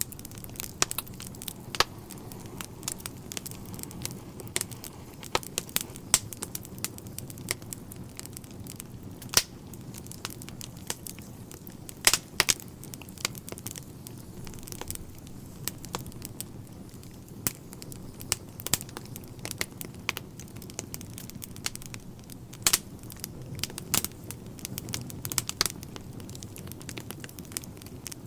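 Wood fire burning in a fireplace: logs crackling and popping in irregular sharp snaps over a low steady rumble of the flames.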